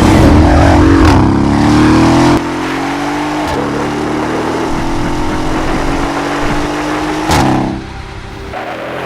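Mercedes-AMG S 63 Coupe's twin-turbo V8 through an Akrapovic exhaust system, revving up for about two seconds and then dropping suddenly to a lower, steadier engine note that drifts slowly. A short sharp burst comes near the end, then the engine note dips and starts to build again.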